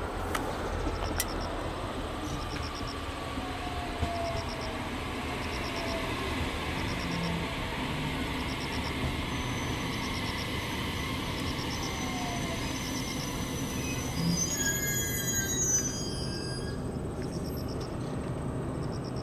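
JR Kyushu 817 series electric multiple unit running into the station. Its motor whine falls in pitch as it slows, and a burst of high brake squeal comes about three-quarters of the way through.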